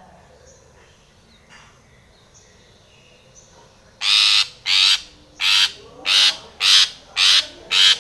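Long-tailed shrike (cendet) giving a rapid series of harsh calls, about seven in a row and nearly two a second, starting about halfway through; before that, only a few faint high chirps.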